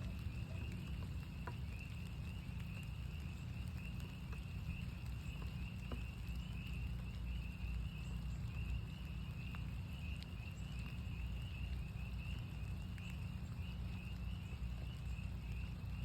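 Chorus of northern spring peepers: many high, short peeps overlapping in a continuous ring. Under it is a steady low rumble of rain, with a few scattered drips.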